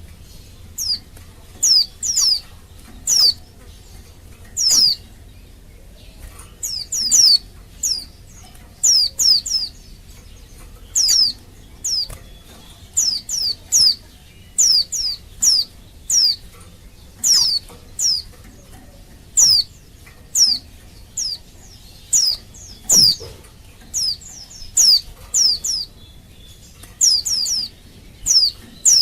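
Female white-eye (pleci) calling: short, high notes, each a quick downward sweep, given singly or in quick runs of two or three, about every second or so. It is the call of a female in breeding condition calling to males, the sound used to set male white-eyes singing.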